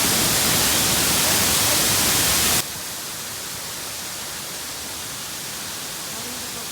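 Steady rushing of a waterfall, dropping suddenly to a quieter level about two and a half seconds in.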